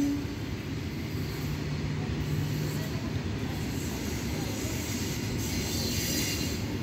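Passenger train coach moving slowly through a station: a steady low rumble of the wheels and running gear, heard from the open doorway, with a brief hiss higher up near the end.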